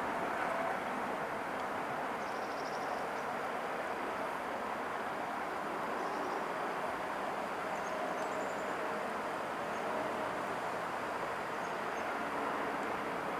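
Steady rush of distant highway traffic, even and unbroken, with a few faint high chirps about two and a half, six and eight and a half seconds in.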